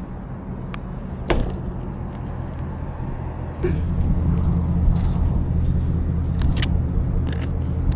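A car engine idling, a low steady hum, which gets louder after about three and a half seconds. A sharp click sounds about a second in.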